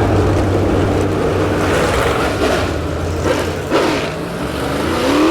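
Dirt late model race car engines running, with the pitch climbing near the end as a car accelerates.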